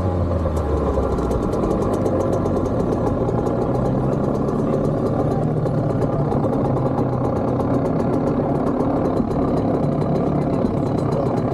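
Kawasaki KX65's small single-cylinder two-stroke engine, its revs falling in the first second, then idling steadily with the bike at a standstill.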